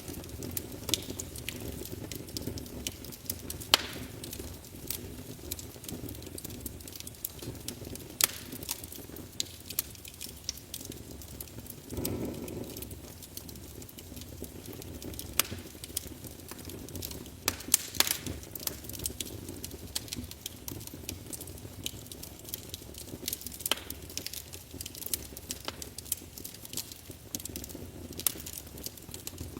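Wood fire in a fireplace crackling: frequent sharp pops and snaps at irregular intervals over a steady low rumble of the flames, which swells briefly about twelve seconds in.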